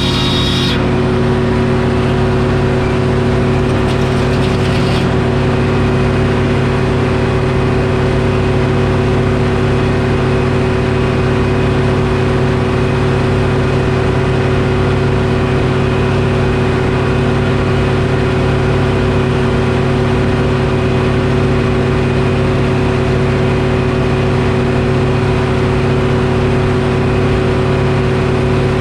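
Detroit Diesel engine powering a Frick sawmill, running at a steady speed. A higher, hissing noise over it stops about a second in, leaving only the engine.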